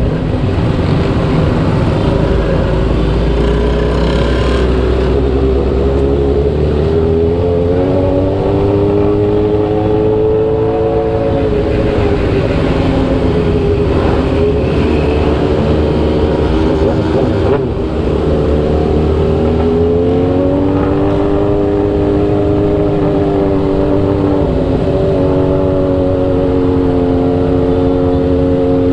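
Motorcycle engine running under way, over a steady rush of wind. The engine climbs in pitch twice as the bike accelerates, then holds steady.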